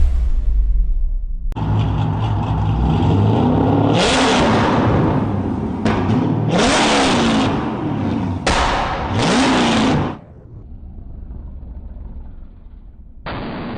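Modified car engine revved hard several times in a row, its pitch climbing and falling back with each rev. The sound breaks off abruptly in places, with a quieter stretch near the end.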